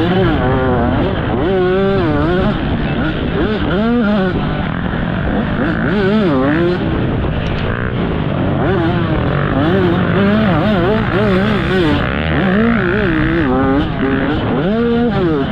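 Several dirt bike engines running together, their pitch rising and falling continually as they are revved and shifted, with no let-up.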